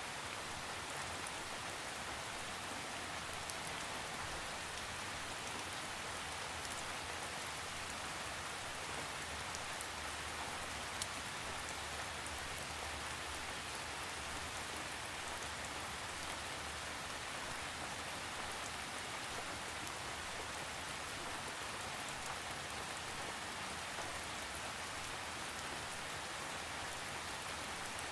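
Steady rain falling on a surface, an even hiss with scattered individual drop taps and no thunder.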